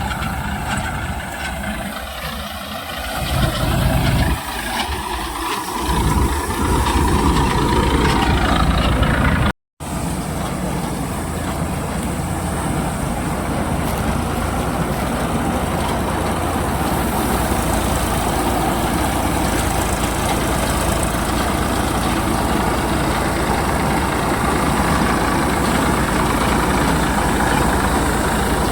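Tractor engine running, uneven in level for the first few seconds, then steady after a brief cut about ten seconds in.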